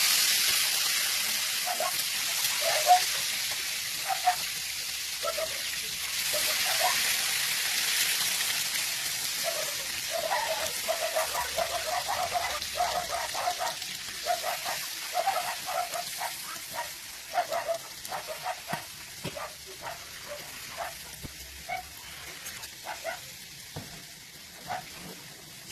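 Food frying in a hot pan: a dense sizzle, loudest at first, that slowly dies down. Short pitched background sounds come and go over it, and a few sharp clicks sound in the second half.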